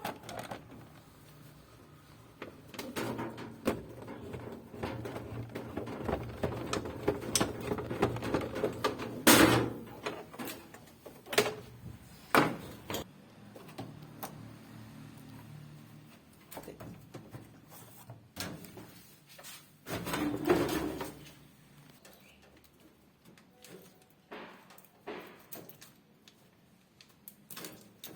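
Irregular knocks, clicks and scraping of parts being handled while a washing machine is worked on, with two louder sharp knocks in the middle and a short burst of scraping past two-thirds of the way through.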